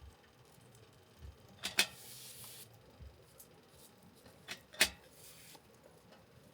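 Two sharp knocks about three seconds apart, each with a softer tick just before it and a short hiss after it.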